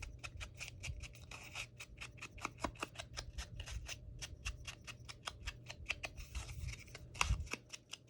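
Rapid, regular brushing strokes, about five a second, as a paper edge is distressed with ink to cover white spots.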